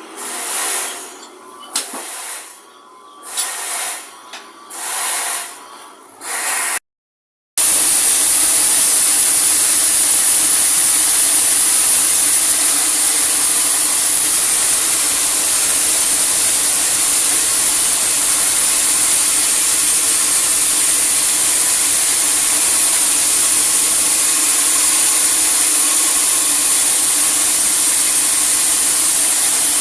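Sawmill saw cutting through a large teak log: a steady, unbroken high hiss over a low hum. Before it, a few rhythmic swells of hiss about once a second, broken off by a short silence about seven seconds in.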